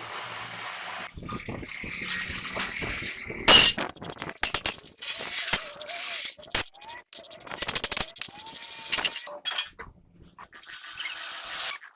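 Metal tools and parts clinking and knocking in a truck repair workshop, with one loud bang about three and a half seconds in.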